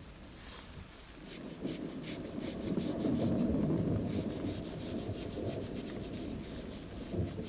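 Sandpaper rubbed by hand in quick back-and-forth strokes, building up about a second in and loudest midway.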